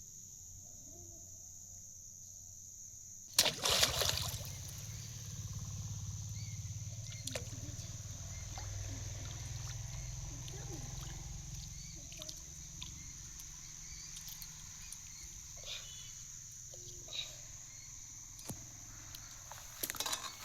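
Water splashing and sloshing, loudest in a sudden splash about three and a half seconds in and again near the end, over a steady high drone of crickets.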